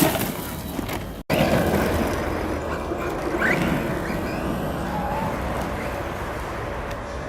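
JLB Racing Cheetah electric RC buggy driving: a steady, noisy rush of motor and tyres. It drops out abruptly for a moment about a second in.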